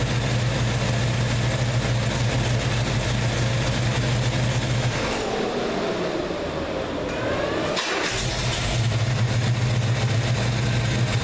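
1967 Chevelle V8 running: a steady idle, revved up about five seconds in and falling back to idle about three seconds later. The newly installed distributor's timing holds steady and the vacuum advance doesn't bounce.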